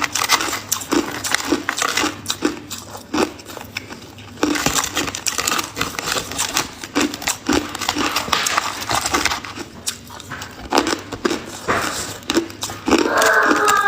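Ice being chewed close to the microphone: dense crunching and crackling, with a chewing rhythm of about two bites a second.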